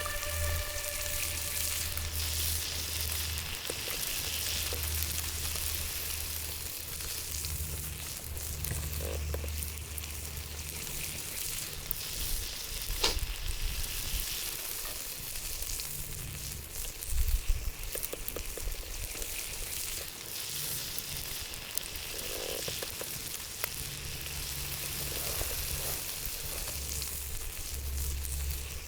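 Steak sizzling steadily in a Turk frying pan over a wood fire. There is a sharp click about halfway through and a few knocks shortly after.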